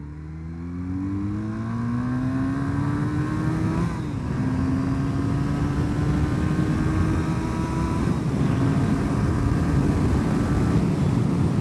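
1984 Honda CB450SC Nighthawk's parallel-twin engine pulling hard from second gear, its note rising steadily, with a brief dip at an upshift about four seconds in and another about eight seconds in. It gets louder as the bike gathers speed.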